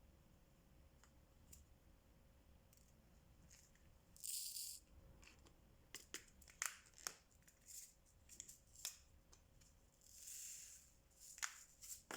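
Diamond painting drills (small resin beads) rattling in a sorting tray as it is shaken, twice: once about four seconds in and once near the end. In between come light, scattered clicks and taps of the drill pen picking up and pressing down beads.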